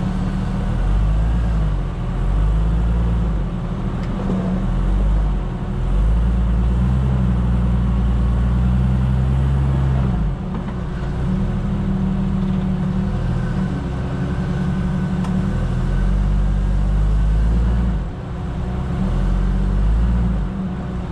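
A 4x4's engine, heard from a hood-mounted camera, running under load while crawling a rocky trail, its revs rising and falling every second or two.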